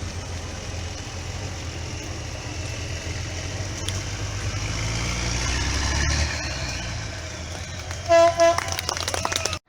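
Truck engine running with a low rumble that builds for about six seconds and then eases off, followed by two short horn toots near the end.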